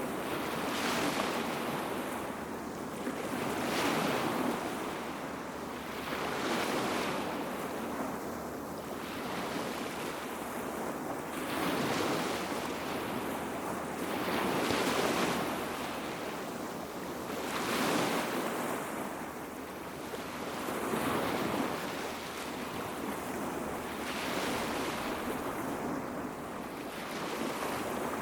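Small sea waves washing up on a beach, each one swelling and falling away in turn about every three seconds.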